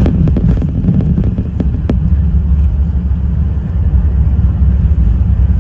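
Loud, steady low rumble inside an Airbus A380 passenger cabin near the end of the flight, with a few short clicks or rattles in the first two seconds.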